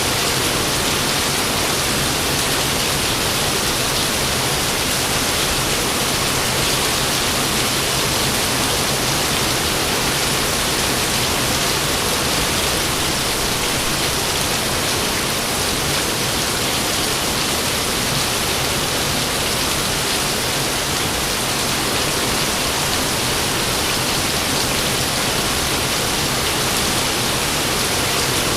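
Steady rain falling, an even hiss that holds level throughout, with no thunder.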